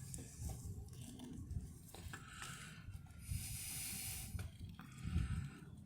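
Faint rustling and handling noise as a hand works a baby bird into its nest, with low rumbling on the microphone and a steady hiss lasting about a second midway.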